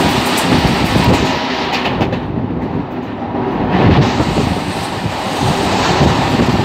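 Siemens EMU electric local train running at speed, heard from the open doorway: steady rumble of wheels on rail with clickety-clack over the joints and air rushing past. The hiss of the air thins for a moment about two seconds in, then returns.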